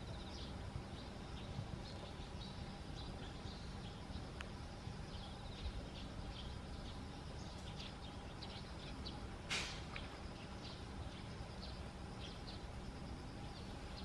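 Faint, scattered chirps of birds over a low, steady outdoor rumble, with one sharper, louder call or click about nine and a half seconds in.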